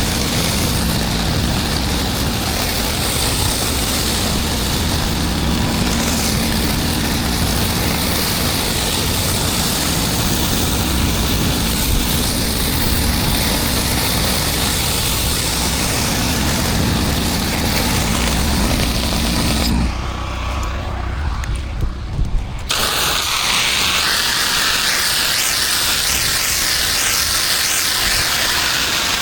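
Pressure-washing rig's engine running steadily with the hiss of high-pressure water cleaning concrete. About two-thirds of the way through the sound drops away abruptly for a few seconds, then returns as a louder high hiss of spraying water.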